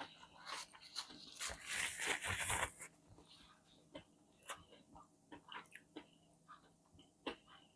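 Close-up eating sounds: a person biting and chewing food, with a crunchy stretch from about one and a half to nearly three seconds in, then soft scattered mouth clicks as the chewing goes on.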